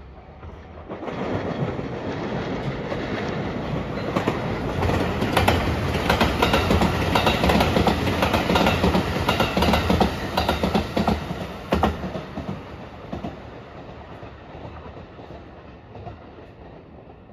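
Electric multiple-unit passenger train passing close by, wheels clattering over rail joints in a rapid uneven run of clicks. It builds over the first couple of seconds and fades out after about twelve seconds.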